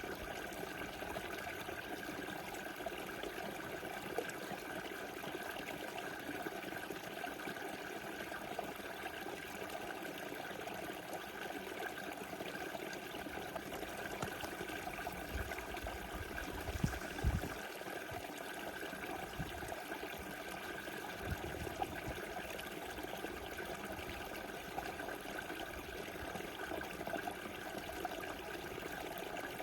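Small river rushing and trickling steadily over its bed, with brief low rumbles about halfway through.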